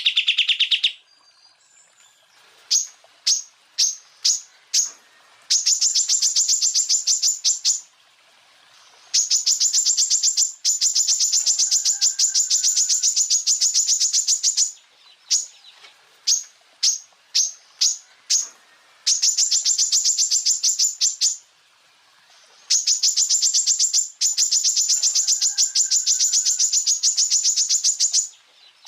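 Green leafbird (cucak ijo) singing 'tembakan': a few separate sharp, high notes, then long rapid-fire volleys of a few seconds each, repeated four times.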